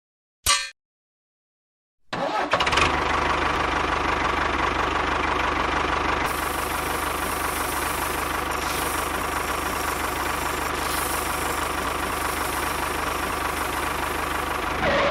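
A small engine starts about two seconds in and runs steadily, then cuts off near the end. A single short sharp sound comes just before it.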